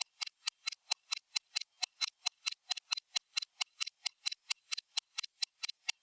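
Stopwatch ticking sound effect: a fast, even run of sharp clicks, about four to five a second.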